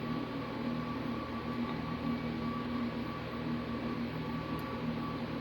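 Steady machine hum with an even hiss, holding a low tone and a higher tone without change.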